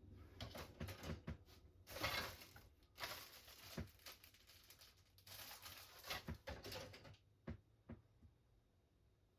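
Faint handling of plastic model-kit parts trees: irregular light clicks and short rustles. The clicks thin out after about seven seconds.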